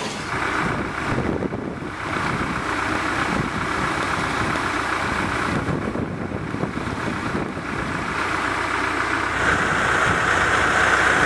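Vehicle running steadily, with wind noise on the microphone.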